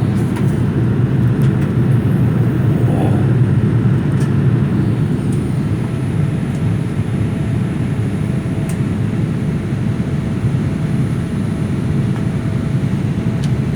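Steady jet airliner cabin noise in flight: a constant low rumble of engines and airflow heard from inside the cabin, with a faint steady hum.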